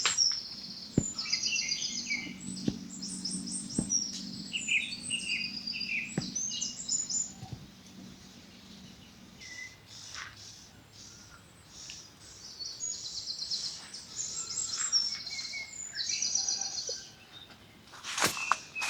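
Songbirds singing: quick runs of high, rapidly repeated chirps in short phrases, in two spells with a lull in the middle.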